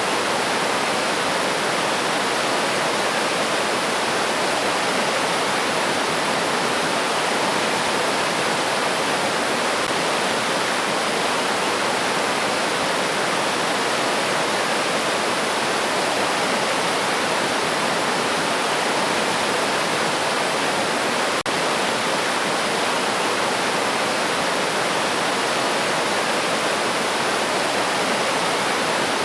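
River water rushing steadily, a constant even rush with no birdsong heard.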